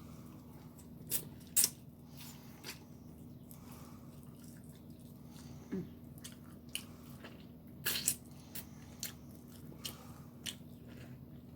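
Close-up eating sounds: biting and chewing food, with scattered sharp crunches and mouth clicks over a faint steady hum.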